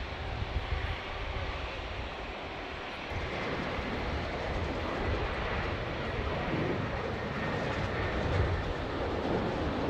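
Jet airliner engine noise: a steady, noisy rush with a deep rumble that grows a little louder about three seconds in.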